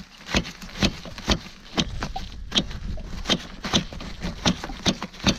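Jet ski out on the water: irregular sharp knocks, about two or three a second, over a low engine rumble that builds about two seconds in. The throttle is frozen stuck on.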